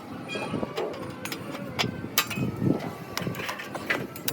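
Irregular sharp clicks and knocks of workshop work, with faint voices in the background.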